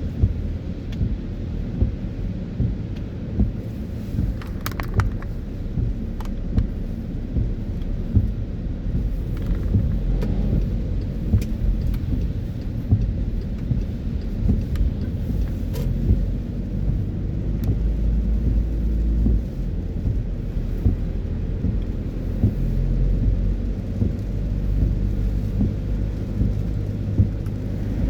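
Car driving on a wet road in the rain: a steady low rumble of road and engine noise, with rain and many small sharp taps over it.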